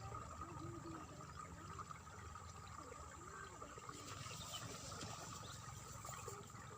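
Water trickling and splashing steadily through a rice field, with a steady high drone underneath.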